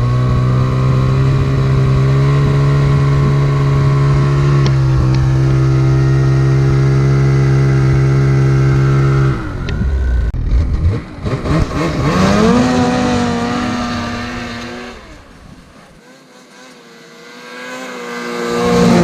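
Ski-Doo 850 E-TEC two-stroke snowmobile engine with its stock muffler, held at a steady 4,000 RPM for about nine seconds, then dropping off. It then revs up and passes in a drive-by, fades away, and grows loud again near the end as it comes back past.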